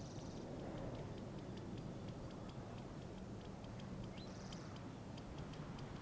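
A bird calling: a quick rising note followed by a run of rapid high ticks, heard twice, faint over a low steady background.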